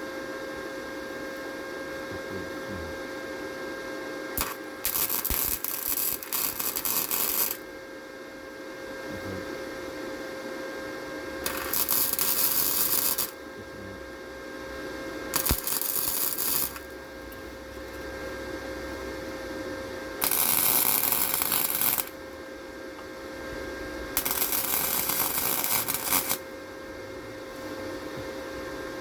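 Electric welder tacking an exhaust tip in place: five bursts of welding, each one to three seconds long, over a steady hum.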